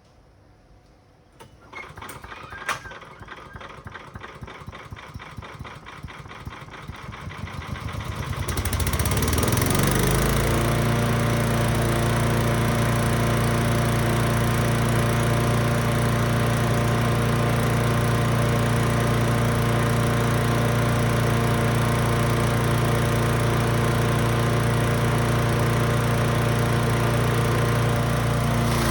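Brush Master wood chipper/shredder's gasoline engine starting: it catches after about a second and a half and runs unevenly, picking up speed for several seconds, then runs steadily at full speed from about nine seconds in.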